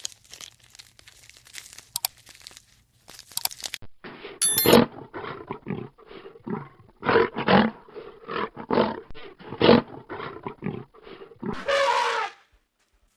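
An animal calling in a rapid series of short, harsh cries, about two a second, after a few seconds of scattered crackling and rustling, with one longer call near the end.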